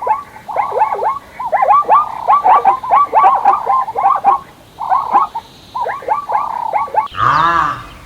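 A crowd of animals calling at once: many short, quick calls overlap in a dense run. Near the end a louder, deeper call comes in, its pitch rising and falling.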